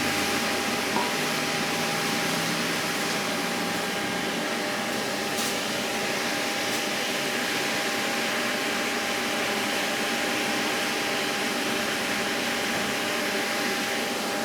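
Steady whooshing drone of an electric motor running a fan or blower, with a constant high whine over it.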